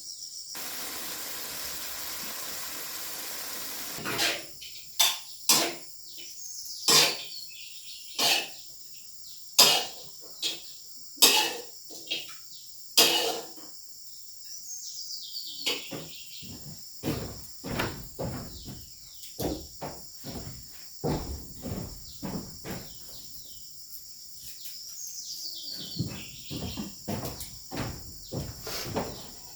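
Crickets chirping steadily, with a rushing hiss for the first few seconds. Then come loud, sharp knocks about one a second for about ten seconds, followed by many quicker, lighter knocks and taps.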